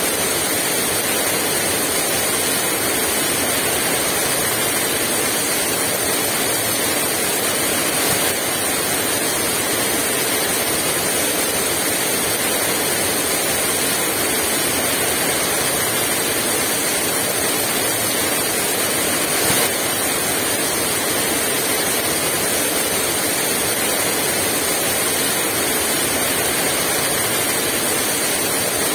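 Heavy rain pouring down steadily, a dense, even hiss with no wind gusts.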